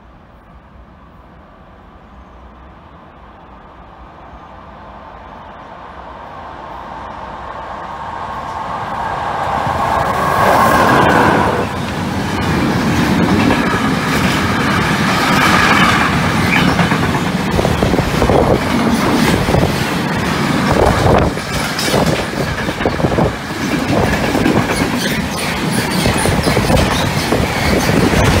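An FS E652 electric locomotive hauling a freight train of empty car-carrier wagons past at speed. The rumble builds over about ten seconds with a steady whine as the locomotive nears. The wagons then roll by with a repeated clatter of wheels over the rail joints.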